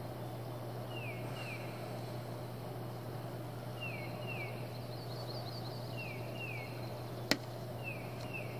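A bird calling in pairs of short, falling whistles every couple of seconds, over a steady low hum. There is a brief run of higher chirps midway and one sharp click about seven seconds in.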